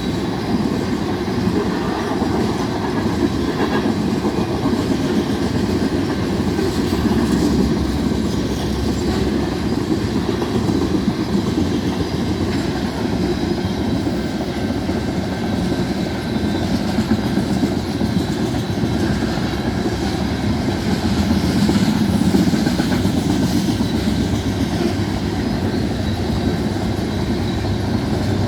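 Freight train of tank cars rolling steadily past, with a continuous rumble and the clatter of steel wheels over the rails.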